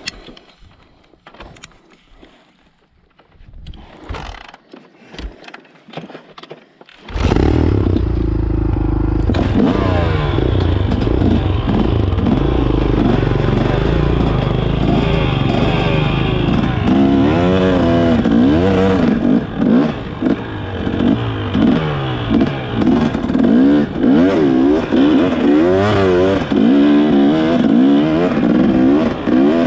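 Faint clicks and rustling for about seven seconds, then a dirt bike engine comes in suddenly and loud, revving up and down over and over as it rides.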